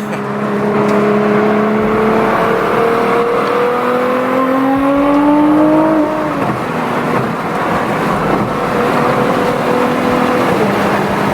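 Nissan GT-R's twin-turbo V6 pulling under acceleration, its note climbing steadily for a few seconds, then dropping at a gearshift about six seconds in and settling to a steady cruise.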